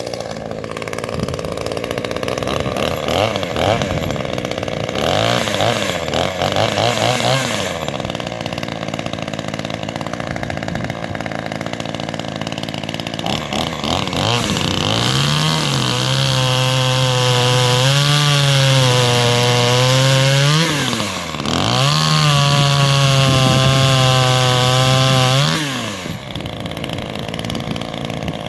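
Ozito 25cc two-stroke chainsaw, a Zenoah G2500 clone, on a test run after tuning. It idles with a few short blips of throttle, then is held at high revs twice for several seconds each, with a brief drop between, and falls back to idle near the end.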